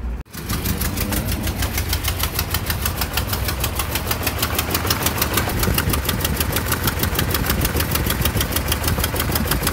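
Toyota 22R four-cylinder engine idling, with a fast, even ticking of about eight a second. The engine has a head gasket blown between cylinders 1 and 2.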